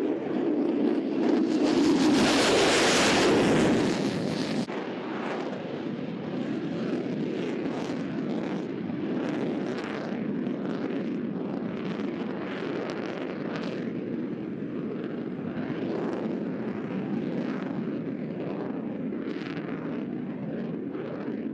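An F-35C Lightning II's single Pratt & Whitney F135 jet engine as the fighter makes a pass. The roar swells to its loudest about two to four seconds in, then settles to a steady, ragged rumble as it recedes.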